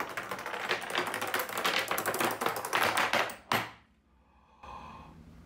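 A long row of padlocks falling like dominoes: a rapid, continuous clatter of metal locks knocking into one another for about three and a half seconds, ending with one sharper knock as the last lock falls.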